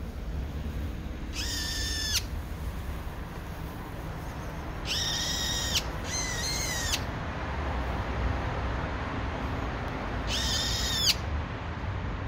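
Brown-eared bulbul giving four long, high, even-pitched calls, each just under a second and bending slightly downward at its end; the second and third come close together. A steady low background rumble runs underneath.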